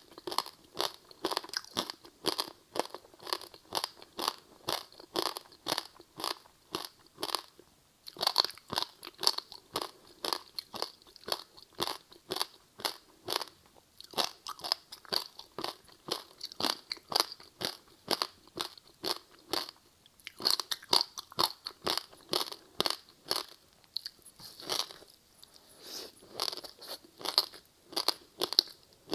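Close-up crunching and chewing of a crispy seaweed-wrapped rice snack: rapid crackling bites, several a second, with brief pauses between mouthfuls.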